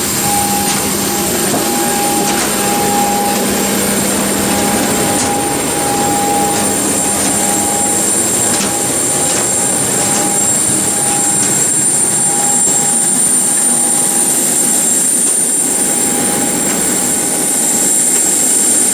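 Cabin noise inside a Boeing 737-900ER taxiing after landing. Its CFM56-7B jet engines run steadily at low power with a high-pitched whine over a broad rumble, and a few faint clicks come through.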